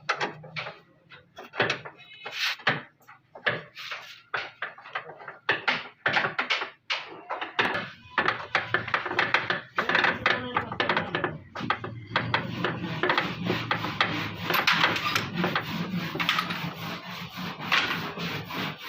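Rapid, irregular knocks and clatter of blows being struck, growing denser after about eight seconds.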